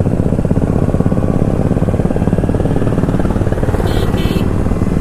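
Kawasaki Ninja 300's parallel-twin engine running steadily under way on the road, with two short high beeps about four seconds in.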